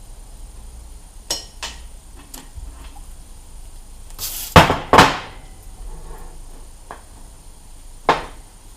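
Sharp metal knocks and clacks of tools and a brake caliper being worked on, as the piston is pushed back into the caliper bore against its new seal. Scattered light taps, then a loud pair of knocks in quick succession about halfway, and one more knock near the end.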